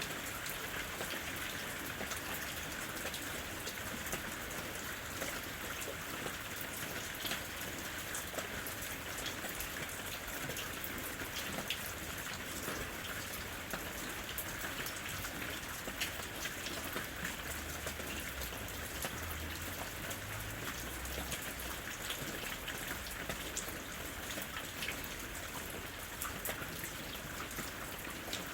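Steady rain falling, an even hiss with many separate sharp drop hits scattered through it.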